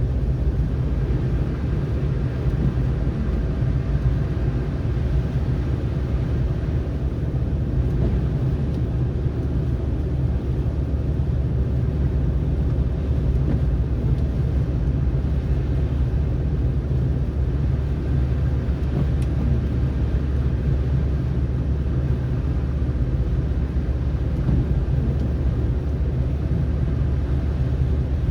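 Car driving at a steady speed: an even, unchanging low rumble of road and engine noise.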